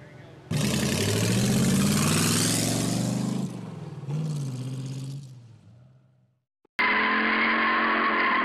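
Ford flathead V8 of a Model A roadster pickup driving past, its engine note rising and then falling with a rush of road and wind noise, fading out about six seconds in. A different, steadier sound with a couple of held tones cuts in near the end.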